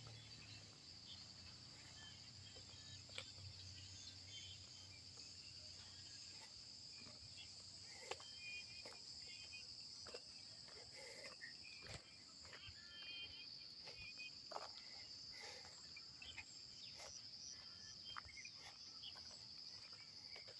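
Faint evening chorus of insects, a steady high-pitched trill, with scattered faint clicks and short chirps over it.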